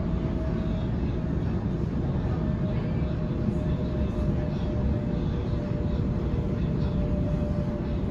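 Interior running noise of a Sydney Trains Waratah double-deck electric train at speed: a steady low rumble of wheels on rail, with a faint whine held at one pitch.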